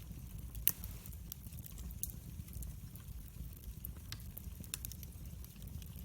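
Wood fire in a fireplace crackling: sharp pops scattered over a low steady rumble, the loudest pop about two-thirds of a second in.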